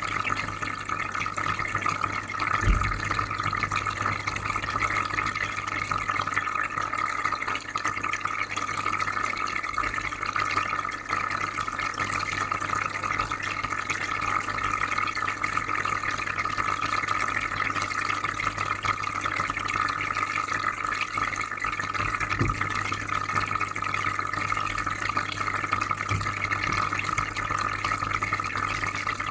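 Aquarium filter running: steady bubbling, trickling water over a low electrical hum. A brief low thump about three seconds in, and two softer ones later.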